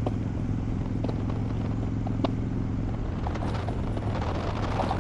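Harley-Davidson Dyna Wide Glide's 103-cubic-inch V-twin running at a steady cruise. Its Vance & Hines slip-on exhausts have had the baffles taken out.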